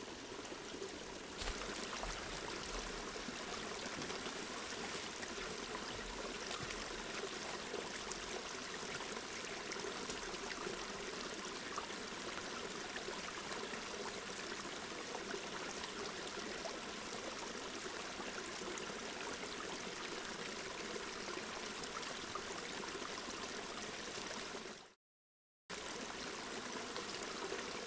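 A small river or brook babbling steadily over rocks. The sound cuts out completely for under a second near the end.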